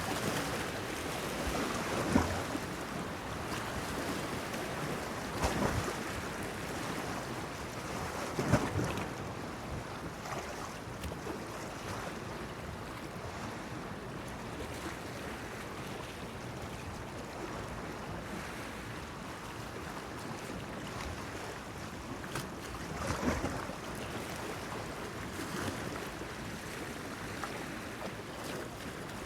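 Sea waves splashing against a breakwater: a steady wash with a few louder slaps about two, five and a half, eight and a half and twenty-three seconds in.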